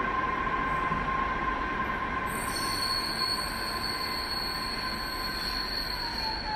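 Train squealing on the rails at the platform: a steady high-pitched squeal of several tones at once over a low rumble. A higher, thinner squeal joins about two seconds in, and the main tone sags a little in pitch near the end.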